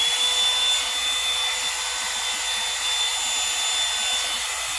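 Revlon One-Step volumizing hair dryer running steadily on its cool setting: rushing air with a high motor whine. The whine finishes climbing back to full pitch at the very start, after the dial has been switched.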